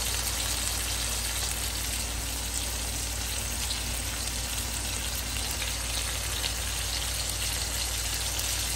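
Chicken breast medallions sizzling in hot olive oil in a cast-iron skillet: a steady frying hiss with scattered small crackles.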